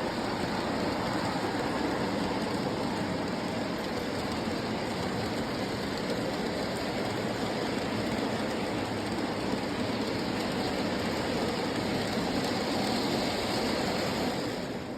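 Electric model train running on track, a steady rumble of motor and wheels that eases off a little near the end.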